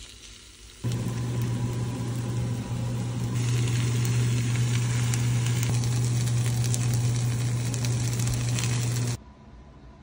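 Shredded potato pancakes sizzling and crackling as they fry in a nonstick frying pan, over a steady low hum. The sizzle starts abruptly about a second in, turns brighter about three seconds in, and cuts off shortly before the end.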